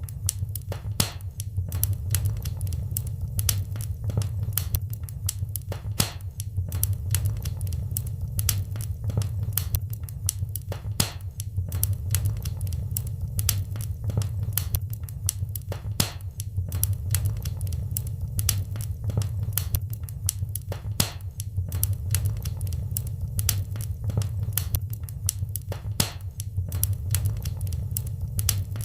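Wood fire crackling in a fireplace: frequent sharp, irregular pops and snaps over a steady low rumble of burning.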